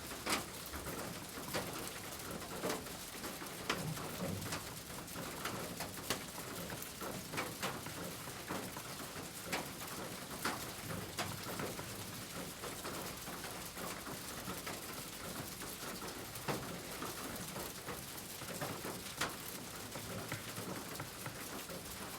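Steady rain with scattered drips and taps, and pigeons cooing now and then.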